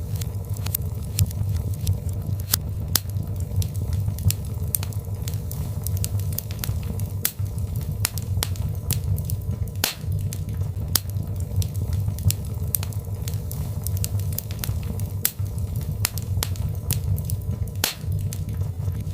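Birchwood fire burning in a fireplace: sharp crackles and pops, several a second at irregular intervals, over a steady low rumble.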